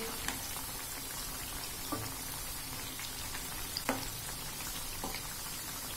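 Kothimbir vadi slices frying in hot oil in a kadhai: a steady sizzle, with a few light ticks as a slotted spoon moves them in the pan.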